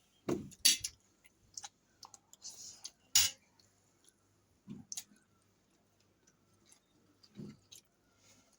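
Close-up eating sounds: fried rice being chewed, with a handful of scattered sharp clicks, the loudest about three seconds in.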